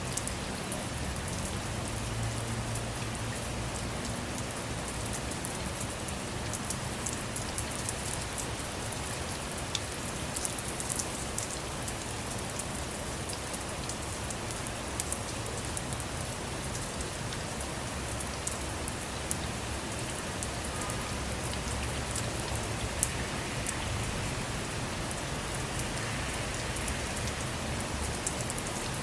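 Steady rain falling on a car, with many small drop ticks scattered through an even hiss and one sharper drop tap about two-thirds of the way through.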